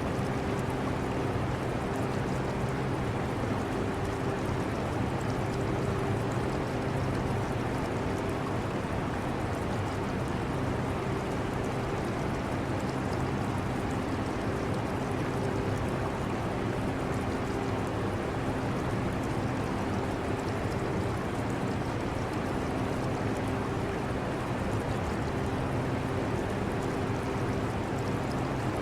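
Air conditioner running steadily: a low hum under a broad rush of blown air, with aquarium water trickling.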